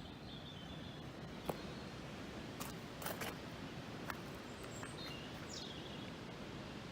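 Quiet rural background noise with a steady low hum, a few sharp clicks about one and a half, three and four seconds in, and birds chirping near the end.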